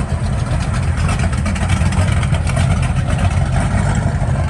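A car or truck engine running close by, with a steady low exhaust note.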